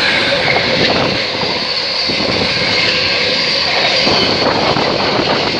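Freightliner Class 66 diesel locomotive, with its two-stroke V12 engine, thrashing through the station at speed with a freight train: a steady, loud rumble and rush of wheels and wagons.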